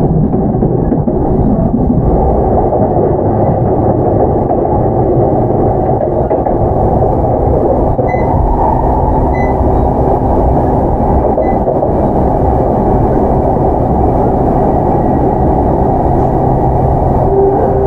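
Running noise inside a JR E233-7000 series commuter train's motor car: a steady, loud rumble of wheels on rail at speed, with no clear motor tone. Right at the end, a rising whine from its Mitsubishi IGBT VVVF inverter begins as the train takes power.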